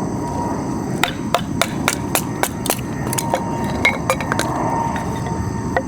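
Hammer striking repeatedly, about a dozen quick sharp blows at roughly three a second, then a single last blow near the end, over a steady hiss.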